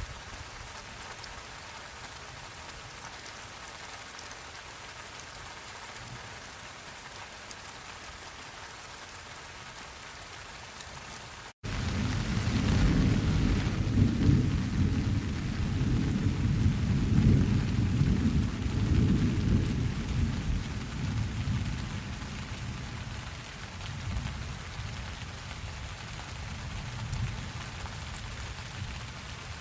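Steady rain falling. About twelve seconds in, right after a momentary dropout, a long low rumble of thunder starts suddenly and slowly fades over about ten seconds as the rain goes on.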